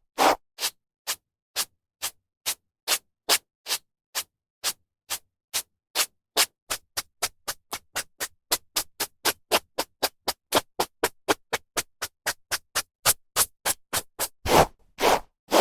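A hairbrush drawn through hair again and again, each stroke a short brushing swish. The strokes quicken from about two a second to four or five a second and grow lighter, then slow to heavier strokes near the end.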